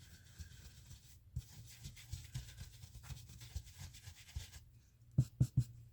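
Ink blending tool rubbed and dabbed over paper through a stencil, making soft, irregular scuffing strokes. Three louder thumps come near the end.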